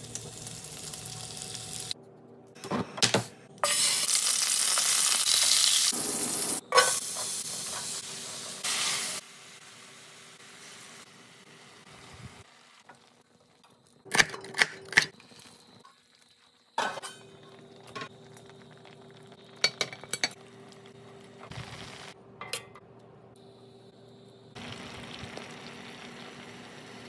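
Food sizzling loudly in a hot stainless steel pan for several seconds, then sharp clinks and clatter of metal tongs and utensils against the pan.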